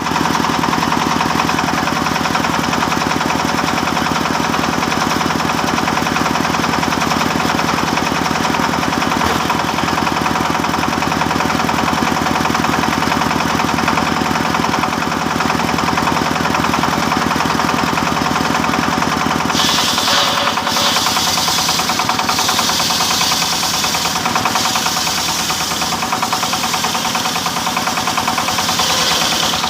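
Engine-driven wood saw running steadily with a regular knock. From about two-thirds of the way in, a higher hiss comes and goes over it in stretches as the blade cuts through teak.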